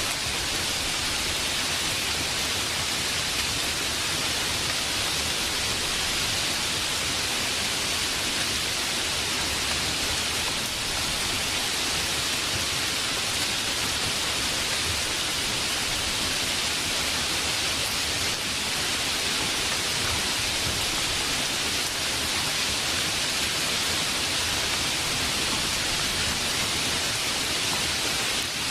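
Steady heavy rain: a dense, even hiss of falling rain with no distinct drops or thunder.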